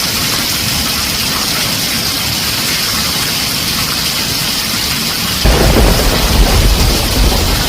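Heavy rain falling steadily on a tin roof; about five seconds in, a loud, deep rumble of thunder breaks in and carries on.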